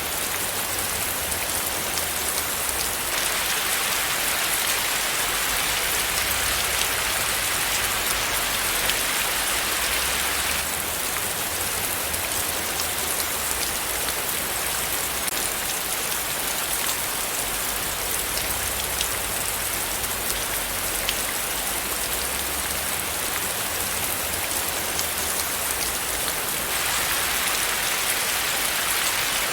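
Steady rain falling on a surface, a dense hiss with many separate drops tapping. It grows heavier about three seconds in, eases again around ten seconds, and picks up once more near the end.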